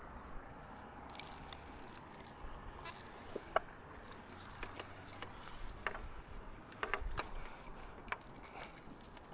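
Scattered small clicks and scrapes of hands working a threaded fibre drop connector into a terminal port, which is refusing to seat.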